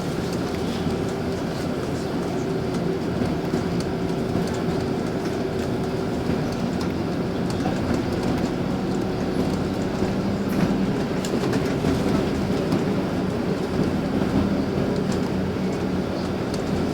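LiAZ 5292.65 city bus under way, heard from inside the passenger cabin: a steady low drivetrain hum with road noise and scattered clicks and rattles from the body and fittings.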